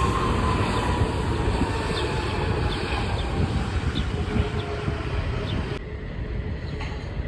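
Jet airliner passing, a steady engine rumble with a whine that falls slowly in pitch as it moves away. The rumble fades, and the higher part of the sound cuts off suddenly near the end.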